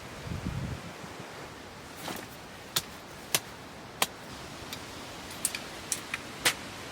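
Camping gear being handled while pitching a tipi: a few soft thumps at the start, then a series of sharp, irregular clicks and taps over a faint rustle.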